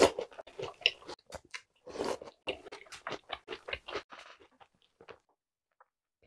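Close-miked chewing of a mouthful of Jolly Pong puffed-wheat cereal soaked in milk: a quick run of small crunches that thins out after about four seconds.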